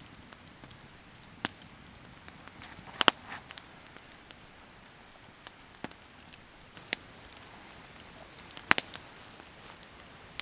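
Wood campfire crackling: a handful of sharp, scattered pops over a soft steady hiss.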